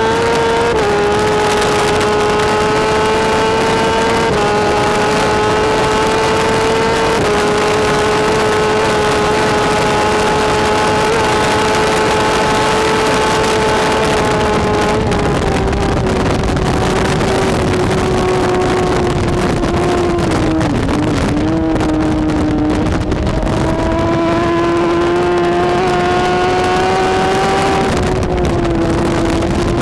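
BMW S1000RR superbike's inline-four engine running at high revs under race conditions, its note held high with small steps in pitch at gear changes in the first few seconds. About halfway through the pitch eases down, dips, then climbs again before dropping once more near the end, over a steady rushing noise.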